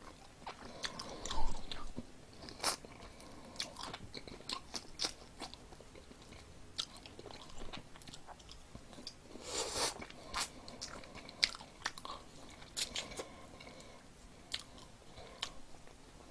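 A person biting and chewing crispy fried chicken close to the microphone: irregular crunches and mouth clicks, with a louder burst of crunching about ten seconds in.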